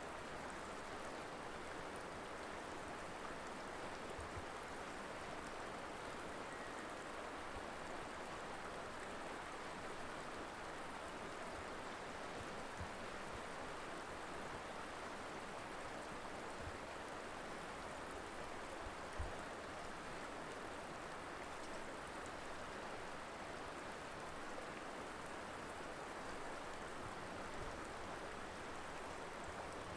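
Mountain river flowing, a steady rush of water with a few soft low thumps, the loudest about two-thirds of the way in.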